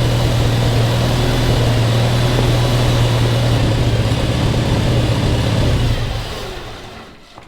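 Motor vehicle engine running steadily with a strong low hum, fading away over the last second or so.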